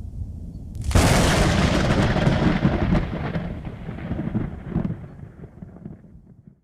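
Thunder: a low rumble, then a sharp crack about a second in that rolls on and fades over several seconds before cutting off abruptly.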